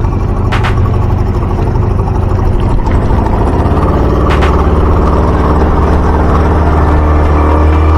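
An engine running steadily; its pitch rises about three seconds in and then holds steady.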